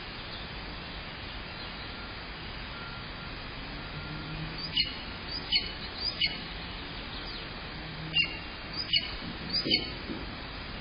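A bird chirping: six short calls, each falling in pitch, in two sets of three, over a steady background hiss.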